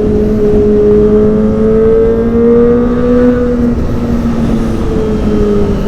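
Kawasaki ZX-25R's 250 cc inline-four engine running through a Prospeed Shark Black aftermarket exhaust while riding at high, fairly steady revs. The pitch climbs slightly about two seconds in, then eases back down.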